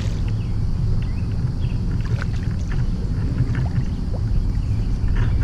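Water and kayak noise while a hooked largemouth bass is brought alongside: a steady low rumble with scattered light splashes and ticks.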